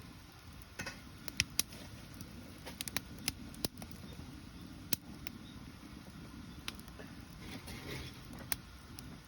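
Wood bonfire crackling: irregular sharp pops and snaps over a steady low rush of the burning.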